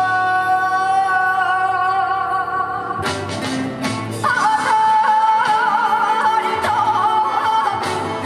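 A woman singing a Korean folk song (Jeju minyo) in traditional style over accompaniment, holding long notes with wavering ornaments; a new, higher held note comes in about three to four seconds in.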